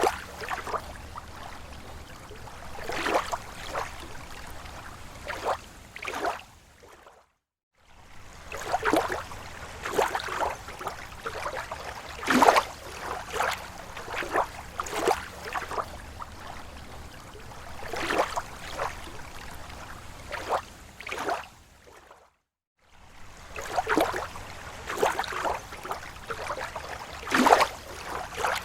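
Small, slow waves lapping at a lake shore: irregular splashes and gurgles a second or so apart over a steady wash of water. The sound cuts to silence for about half a second twice, about seven seconds in and again about twenty-two seconds in.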